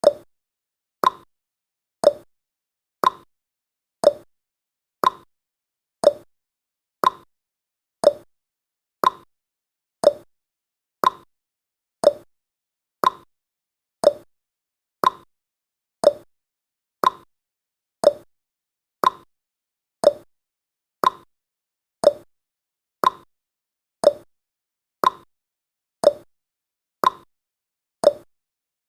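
Clock-style ticking sound effect of a countdown timer, one sharp tick every second at a steady pace, alternating slightly in pitch like a tick-tock.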